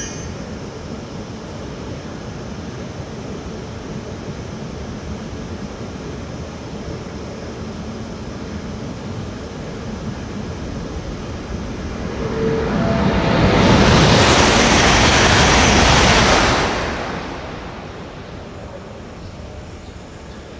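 E8 series shinkansen passing through the station at high speed on a test run: a low rumble swells into a loud rushing of wheels and air about twelve seconds in, stays loud for about four seconds with a thin high whine above it, then fades away.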